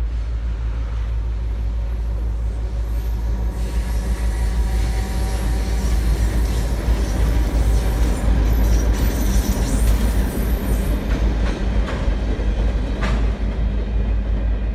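CCET diesel freight locomotive and its cars rolling across a steel girder bridge: a steady low engine drone under the rumble of wheels on the rails, growing louder as it passes, with a sharp click near the end.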